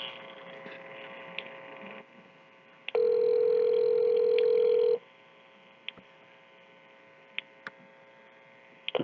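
A phone on speaker ringing out at the other end: the ringback tone, one steady two-second ring about three seconds in, with faint line hiss and small clicks in the silent gaps while the call waits to be answered.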